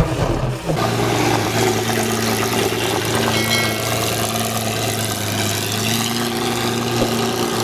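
Pagani Zonda's Mercedes-AMG V12 idling steadily. It settles into an even idle within the first second.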